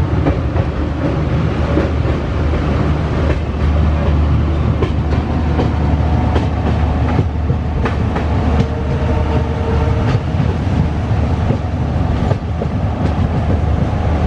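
Passenger train running on the tracks: a steady low rumble with the clickety-clack of wheels going over rail joints at irregular intervals.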